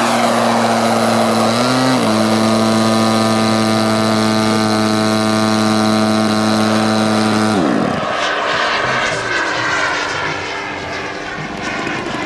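Giant-scale radio-control model airplane engine running at a steady pitch, with a short dip about two seconds in. Its pitch falls and it drops away about eight seconds in, leaving fainter, wavering aircraft engine noise.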